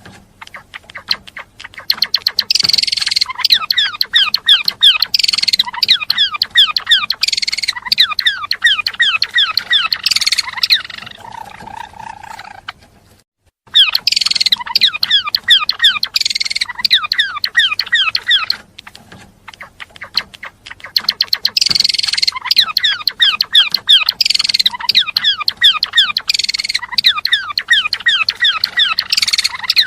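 Gelatik belong songbird singing: long runs of fast, high chirps and trills. There is a short break about 13 seconds in, after which a matching stretch of song follows.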